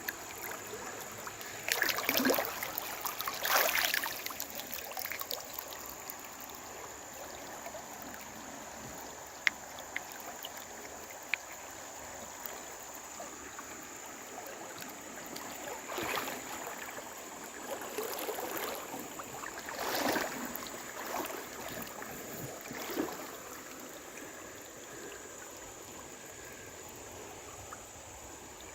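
Creek water rushing steadily, broken by several louder swelling splashes of someone wading and moving through the water. A few sharp clicks sound about ten seconds in.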